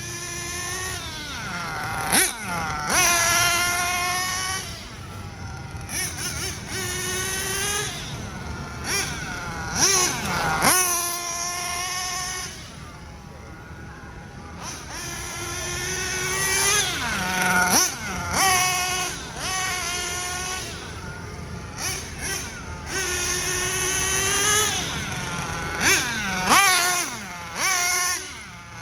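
High-revving nitro engine of a Hobao Hyper VS RC buggy running in repeated throttle bursts during engine break-in. Its high whine climbs and drops every two to three seconds, with a few sharp rev-ups.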